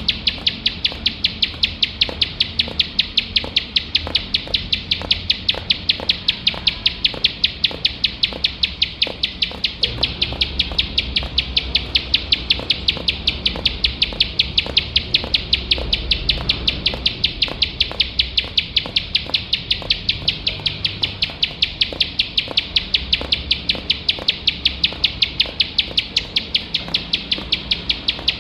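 Plain prinia (ciblek sawah) singing without pause: a rapid, unbroken train of sharp, high repeated notes, about four or five a second, at a steady level.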